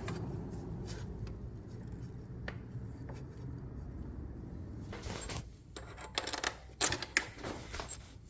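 Scattered sharp metallic clicks and taps of tools and parts being handled while a motorcycle's front brake caliper is refitted, over a steady low hum; the clicks come in a cluster from about five seconds in.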